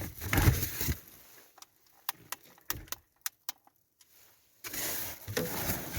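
Handling noise of light clicks and knocks, with metallic clicks like keys or a latch, then a steady rushing hiss that sets in about five seconds in.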